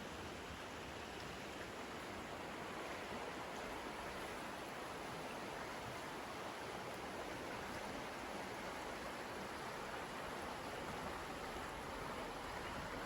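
Flowing stream water, a steady, even rushing.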